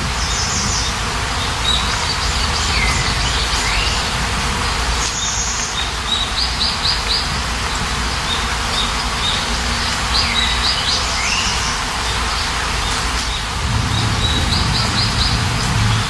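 Songbirds chirping over a steady hiss of rain, with quick runs of four or five high notes and short swooping calls that recur about ten seconds apart.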